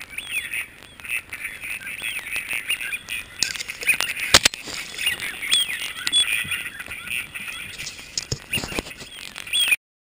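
Birds calling, with many short chirping calls overlapping, and a single sharp bang about four and a half seconds in that is the loudest sound; the sound cuts off abruptly near the end.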